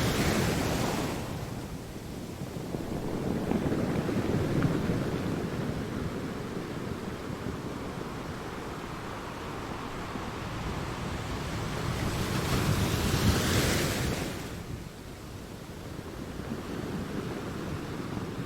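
Ocean waves crashing against rocks: a loud crash right at the start and another about twelve seconds in, with rumbling surf and a softer wash in between.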